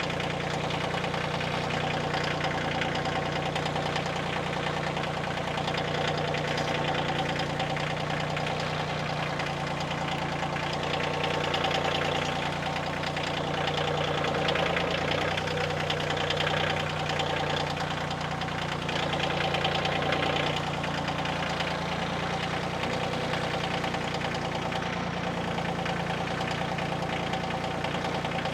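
Kioti CK2610 compact tractor's diesel engine running steadily under light work, its sound swelling slightly three times.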